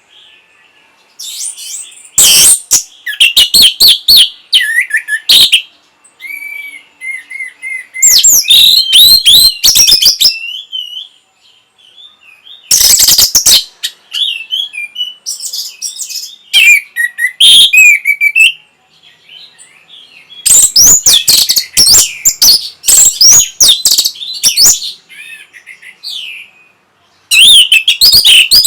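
Orange-headed thrush singing loud, varied phrases of high whistles and rapid chattering notes, in bursts of a few seconds separated by short pauses.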